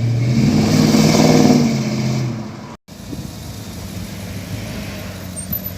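A car engine running loud as the car passes, swelling to its loudest about a second in and fading away by about two and a half seconds. After a sudden cut, a steadier, quieter engine and road sound.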